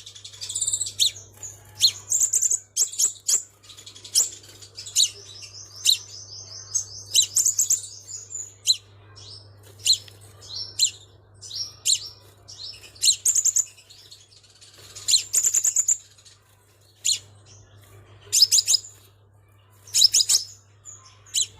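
Crimson sunbird calling: short, sharp high chirps in quick bursts, with one longer rapid trill about five seconds in. A faint steady low hum sits underneath.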